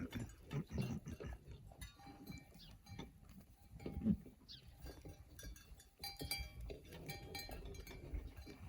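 A sheep eating alfalfa hay up close: irregular crunching and munching as it chews, with a brief louder low sound about four seconds in.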